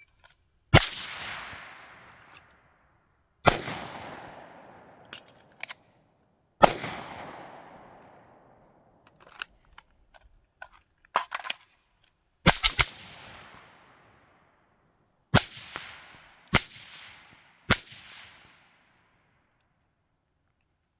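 Gunshots: about eight single shots fired one at a time at an uneven pace, two of them close together about halfway through. Each loud crack trails off over a couple of seconds, and fainter cracks fall between the shots.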